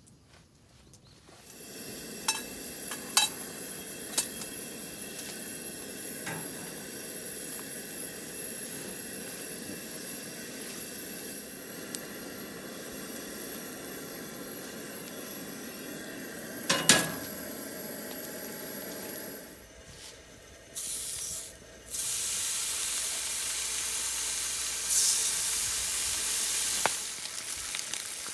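Food sizzling in a pan, a steady hiss, with a few sharp clinks of a utensil against the pan. The sizzle starts a second or so in and shifts in level abruptly a few times in the second half.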